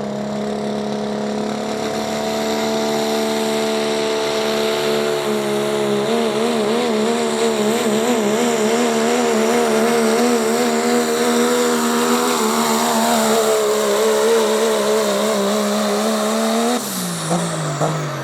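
A competition pulling vehicle's engine held at full throttle under heavy load. From about six seconds in its pitch wavers rapidly up and down, and near the end the engine is let off and its pitch falls away.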